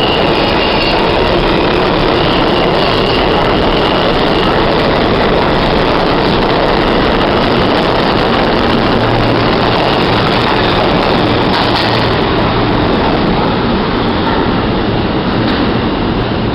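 New York City subway train running at speed between stations, heard from inside the car: a steady, loud rumble and rush of wheels on rail. A thin high wheel squeal at the start fades out within the first few seconds.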